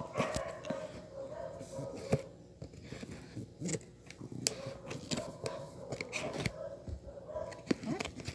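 A parcel being handled and opened by hand: a string of irregular clicks, taps and scrapes.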